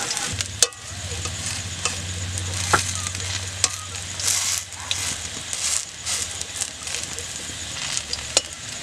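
Arum flower pakoras sizzling as they shallow-fry in oil in a wok, with a metal spatula scraping and clicking against the pan as it presses and turns them; a few sharp clicks stand out. A low steady hum runs underneath.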